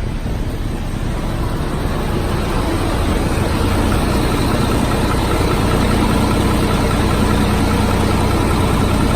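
2005 GMC truck engine idling steadily shortly after a cold start, growing a little louder over the first few seconds, then holding an even hum. It runs smooth and quiet, which the owner takes as a sign that the motor is in good shape, with no blow-by.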